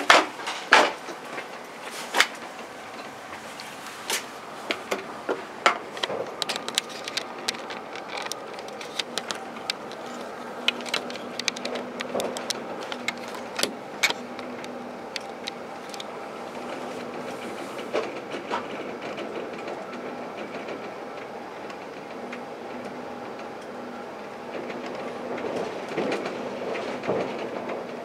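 B 81500 regional train running, heard from on board: a steady running noise and hum from the train, with sharp irregular clicks and knocks from the wheels and fittings through the first half, and the noise swelling slightly near the end.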